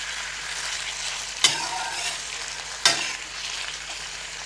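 Chicken pieces sizzling in hot oil in an iron kadhai while being stirred with a metal slotted spatula, which knocks against the pan twice.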